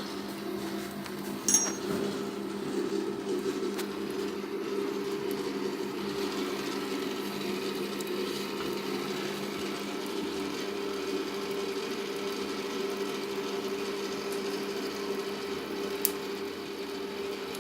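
A small motor running with a steady hum, with a sharp click about a second and a half in and another near the end.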